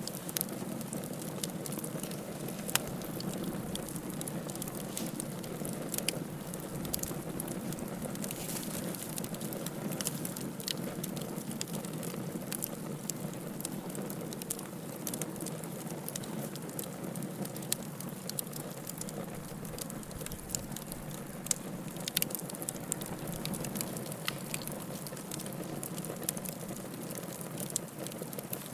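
Open fire burning and crackling: a steady low hiss with frequent irregular sharp crackles and pops, a few louder snaps among them.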